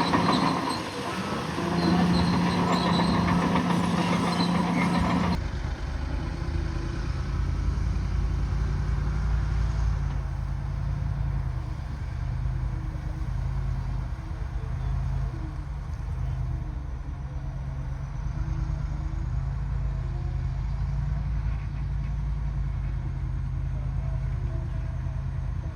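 Heavy diesel engine of a bulldozer working, its pitch rising and falling with load. About five seconds in the sound changes abruptly from a louder engine with a steady whine to a lower, deeper rumble.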